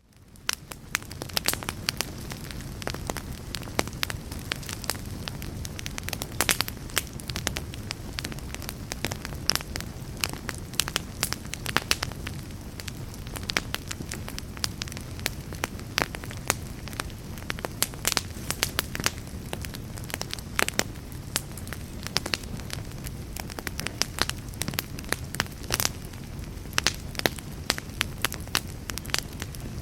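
Wood fire burning in a fireplace: a steady low rumble of flames with frequent sharp crackles and pops from the burning logs. It fades in from a moment of silence at the very start.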